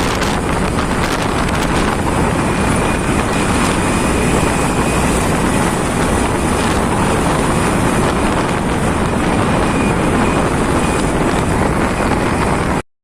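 Steady wind and road noise from a moving motorcycle, loud on the microphone. The sound cuts out for a moment near the end.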